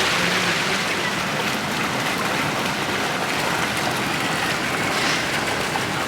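Steady, even hiss of water with no distinct events.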